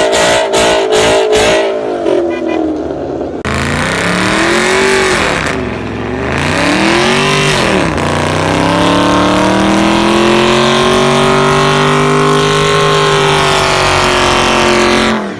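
Car engine revving hard during a burnout, with the tyres spinning in smoke. It starts with a pulsing sound of about three beats a second, then the revs fall and climb twice and hold high and steady before cutting off near the end.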